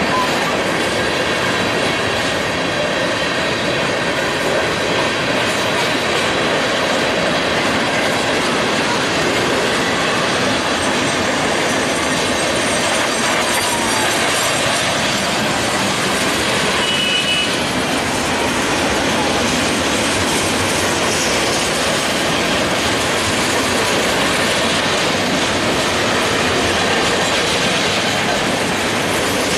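Freight train of covered hopper cars and a gondola rolling past close by: a loud, steady noise of steel wheels running on the rails.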